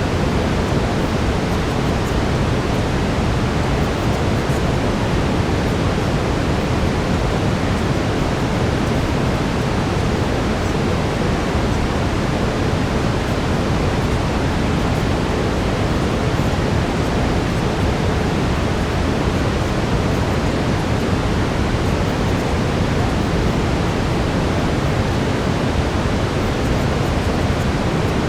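Steady brown noise: a dense, even rushing hiss weighted toward the low end, unchanging throughout.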